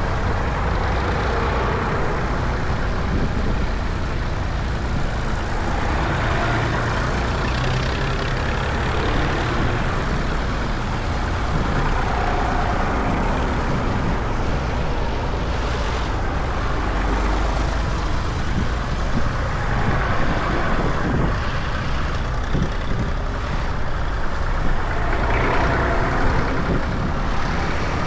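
Tractor engines running on the road, a steady low rumble that swells a few times as they go.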